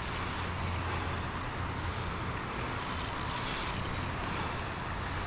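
Steady outdoor background noise: an even hiss with a constant low rumble, and no distinct events.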